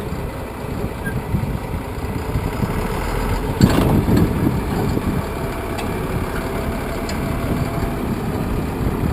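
Heavy machine's engine running steadily, with a sharper knock about three and a half seconds in.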